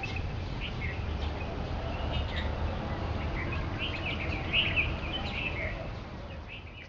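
A flock of birds chirping and calling, with many short, high chirps scattered throughout over a low, steady background rumble. The sound fades out near the end.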